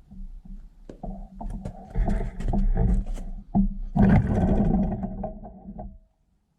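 Victa 18 lawn mower being pull-started: two pulls on the starter cord, with the engine firing and running roughly on the second pull. The sound cuts off suddenly near the end.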